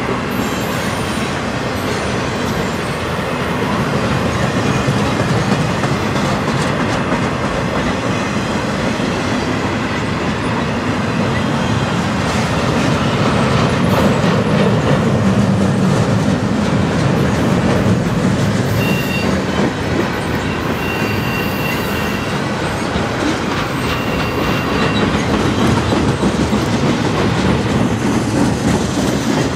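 Freight train of loaded flatcars rolling steadily past at trackside, a continuous rumble with the wheels clicking over the rail joints. A few short, high wheel squeals come through in the second half.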